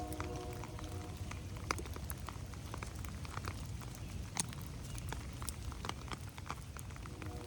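Rain dripping onto forest leaves and ferns: scattered, irregular drips and taps over a steady low rumble.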